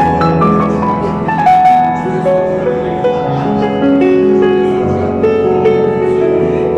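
Piano music playing a flowing melody, with a quick descending run of notes about a second and a half in.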